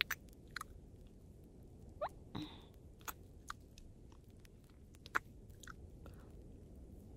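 Close-miked wet kissing sounds: soft lip smacks and mouth clicks, scattered irregularly, none lasting more than a moment.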